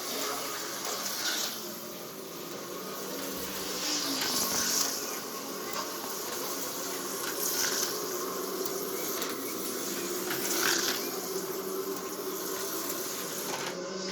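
Tyco HO slot cars' tiny electric motors whining as they lap the track, louder as a car passes about every three seconds, with the motor pitch rising near the end.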